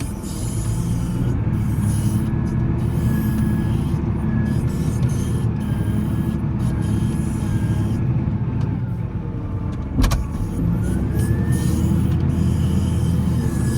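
Volvo L70C wheel loader's diesel engine running steadily under load, with a faint whine that rises in pitch near the end. A single sharp knock about ten seconds in.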